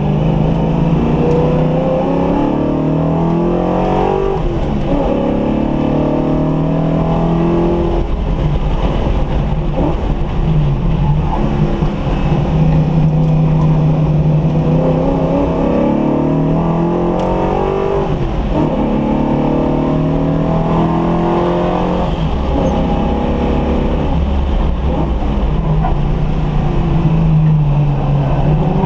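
Car engine repeatedly pulling up through the revs and backing off, its pitch rising and then dropping several times: a freshly built engine being run in.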